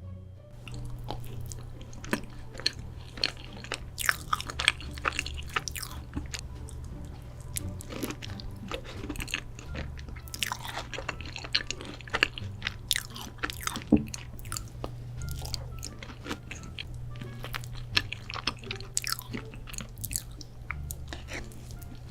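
Close-miked chewing and crunching of chocolate, with many sharp crackling bites and clicks throughout, over background music with a steady low bass line.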